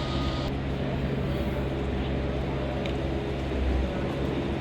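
Busy city street ambience: a steady rumble of traffic and running vehicle engines, with a high hiss that cuts off about half a second in.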